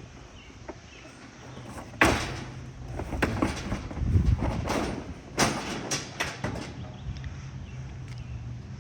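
Cardboard and wood scraps being thrown into a dumpster: a string of about seven thuds and bangs, the first the loudest, over the steady low hum of an idling vehicle engine.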